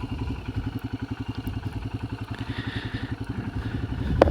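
Royal Enfield Himalayan motorcycle's single-cylinder engine running steadily with an even, fast pulse of firing strokes. A single sharp click or knock comes near the end.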